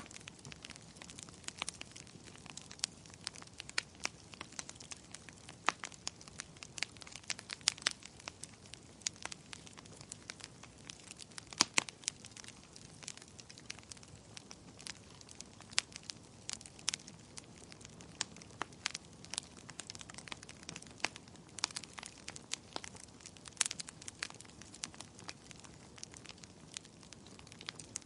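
Fire crackling in a fireplace: irregular sharp snaps and pops, several a second, with a few louder pops, over a soft steady hiss.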